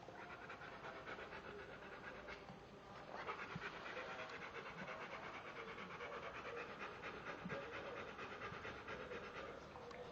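A dog panting rapidly and steadily, louder from about three seconds in.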